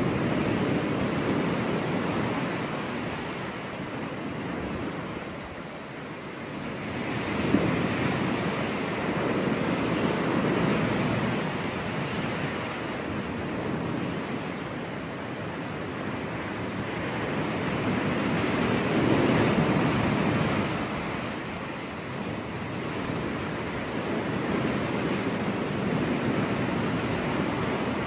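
Ocean surf washing onto a beach, waves breaking and receding in slow swells every several seconds. A brief sharp splash comes about seven seconds in.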